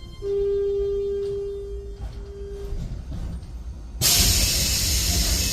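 Electric train at a stop: a steady electronic tone sounds, breaks off, and briefly sounds again. About four seconds in, a loud burst of compressed air hisses out.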